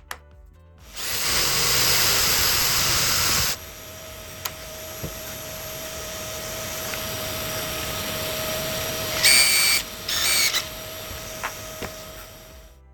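Electric power tool running: loud for a couple of seconds, then a steadier hum with a whine that slowly grows louder, broken twice by short sharp bursts, before it stops abruptly near the end.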